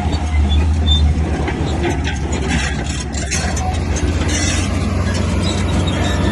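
Komatsu crawler bulldozer's diesel engine running steadily, with metallic clanking and squeaking from the tracks and blade as it works.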